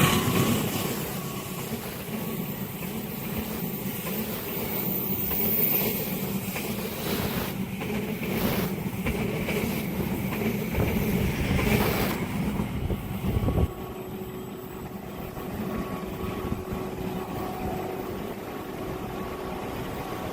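Train running past at a level crossing: a steady rumble with repeated clattering from the wheels on the rails. It cuts off suddenly about two-thirds of the way in, leaving a quieter steady hum.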